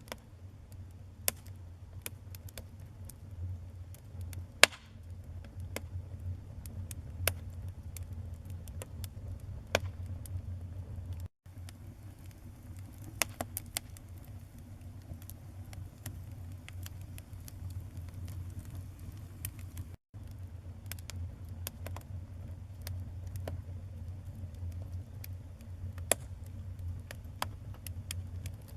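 Wood fire burning in a fireplace: a low steady rumble of flames with frequent small crackles and a few sharper pops of the burning wood, the loudest pop about four and a half seconds in. The sound cuts out for an instant twice, near the middle and about two-thirds through.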